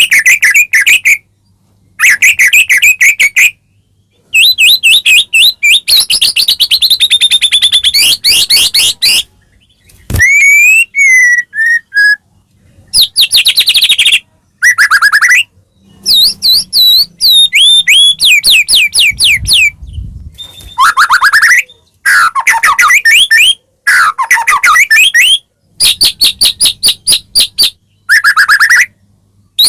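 White-rumped shama (murai batu) singing loudly in full, varied song. It gives phrases of fast repeated notes, trills and rising whistles, each a second or two long, with short pauses between them. This is the kind of full song used as a lure to stir other shamas into singing.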